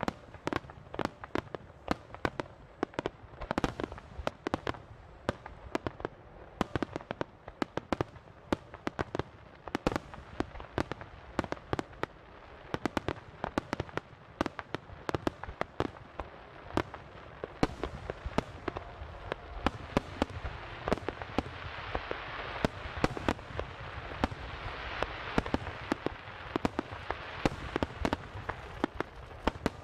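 A fireworks starmine barrage with 10-inch shaku-dama shells: dense bangs of launches and bursts follow one another several times a second. In the second half a steady hiss rises under the bangs.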